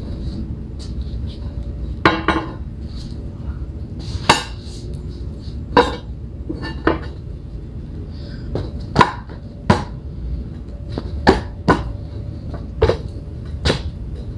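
Sharp, irregular clacks and knocks, about a dozen, of paving tiles being set down and fitted into place on plastic paver base, over a steady low rumble.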